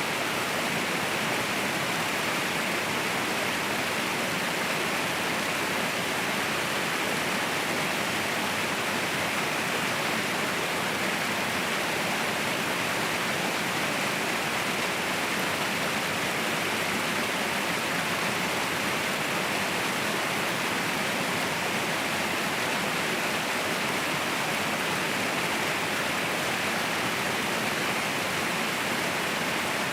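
Waterfall crashing steadily, a constant rushing hiss of falling water with no change in level.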